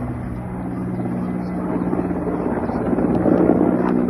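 A steady engine drone holding one pitch, over a rushing background noise.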